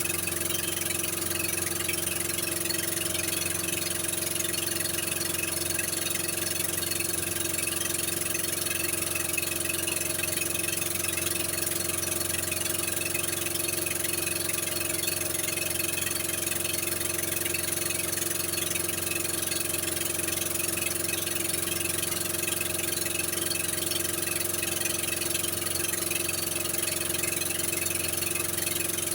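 A steady, unchanging machine hum holding a few constant tones, with a high steady hiss above it.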